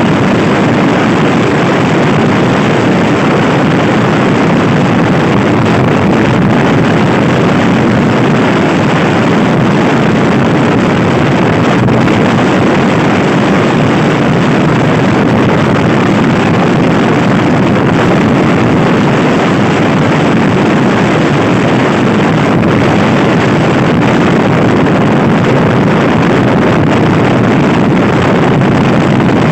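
Loud, steady wind roar on the microphone of a fast-ridden scooter, an even rushing noise that covers everything else.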